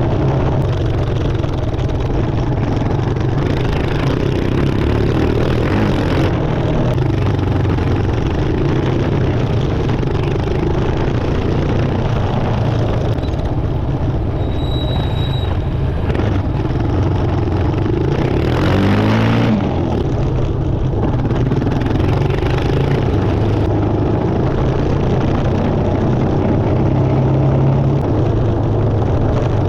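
Motorcycle engine running steadily while riding off-road, with wind and road noise; the engine pitch rises briefly about two-thirds of the way through.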